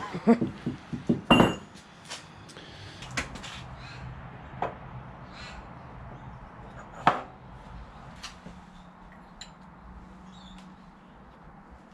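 Metal engine parts being handled in a workshop, knocking and clattering. A quick run of knocks comes in the first second and a half, then a few single taps, the loudest about seven seconds in, over a faint steady hum.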